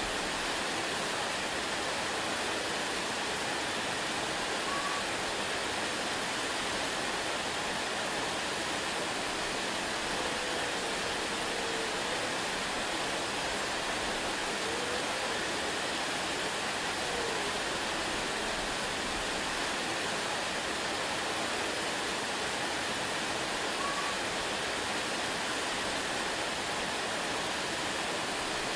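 Waterfall: a steady, unbroken rush of falling water, with a few faint short whistles now and then.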